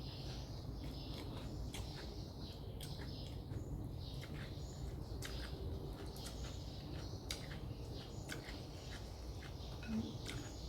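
Close-up mouth sounds of eating noodles: chewing with many short, sharp clicks and smacks and brief hissy bits, over a low steady background hum.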